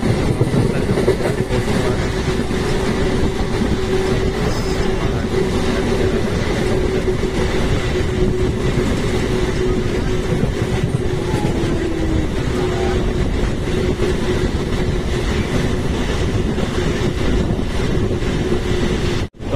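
Passenger train running at speed, heard from on board: a steady, loud rumble and rattle of the carriage with a steady hum running through it.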